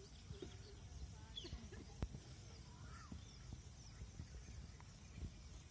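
Faint outdoor ambience: a steady low rumble with scattered light clicks, and small birds chirping faintly throughout.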